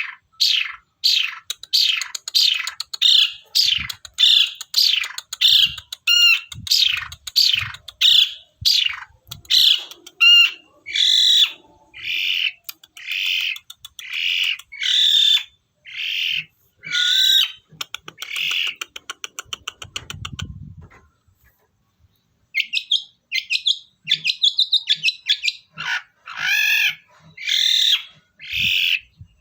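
Long-tailed shrike (pentet) calling: harsh, down-slurred call notes repeated about twice a second, broken about two-thirds through by a fast rattling trill and a short pause before the calls start again. It is a pancingan, a shrike call played to provoke other shrikes into singing.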